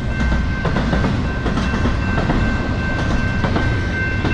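Railcars of a long train passing a crossing, the wheels clacking over the rail joints in a steady low rumble as the end of the train goes by. A steady high-pitched tone runs underneath.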